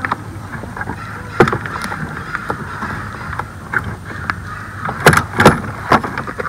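A small Porta-Bote folding boat under way on the water, with a steady rushing noise and sharp knocks against the boat: one about a second in and two louder ones about five seconds in.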